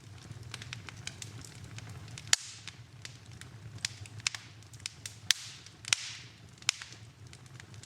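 Wood fire burning in a fireplace, crackling with irregular sharp pops, the loudest about two and a half seconds in and again a little after five seconds, over a steady low rumble.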